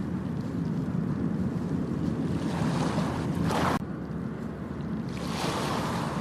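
Ocean surf washing on a beach, with wind rumbling on the microphone. One wash builds up a little past the middle and cuts off abruptly, and another rises near the end.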